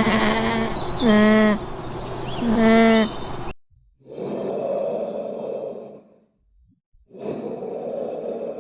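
Birds chirping over repeated drawn-out animal calls, each under a second long. Then, after a sudden break, two long breathy blowing sounds of about two seconds each.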